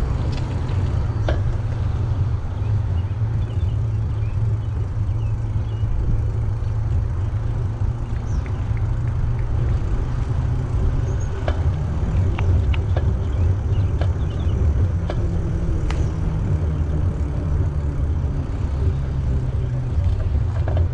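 Steady low rumble of wind buffeting the microphone and tyre noise while riding a bicycle, with scattered light clicks and rattles.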